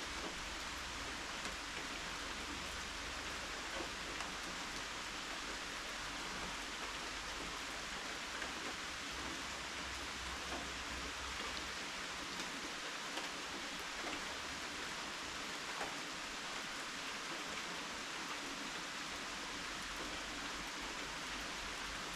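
Steady rain falling, with scattered louder drops ticking through the even hiss.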